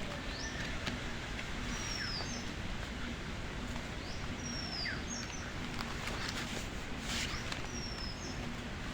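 A bird calling about four times, each call a high descending whistle ending in a short upturned note, over a steady hiss of outdoor ambience.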